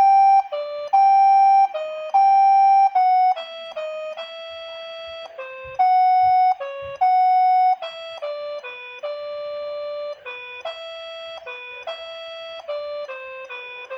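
Instrumental waltz melody played as a single line of evenly held notes in a steady electronic keyboard tone. A few of the long notes stand out much louder than the rest.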